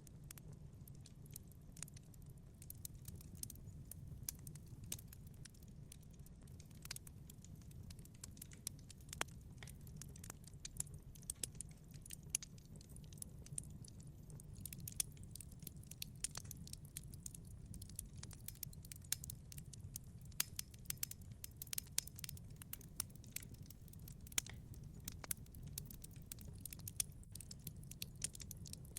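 Wood fire burning in a wood-fired pizza oven: a steady low rumble of the flames with frequent, irregular sharp crackles and pops from the burning wood.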